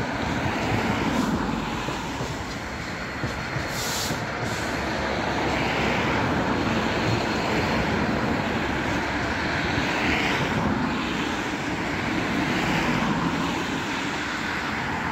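Freight train of loaded aggregate box wagons rolling past on the rails, with the trailing Class 66 diesel locomotive passing underneath about halfway through. The rumble is steady and grows louder after a few seconds, with a brief high hiss about four seconds in.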